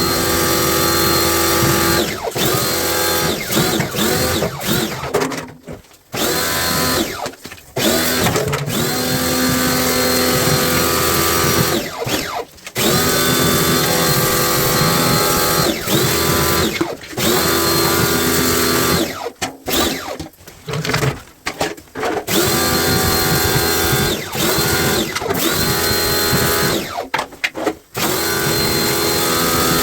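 Cordless power drill-driver whirring in repeated short bursts, each spinning up in pitch and then stopping, as it drives screws on a top-loading washing machine.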